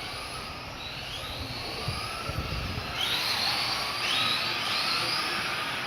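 Electric motors of several 1/14-scale Tamiya Euro RC trucks whining as they accelerate and slow around the track, the pitches rising and falling over one another. The whine gets louder about halfway through as the trucks come closer.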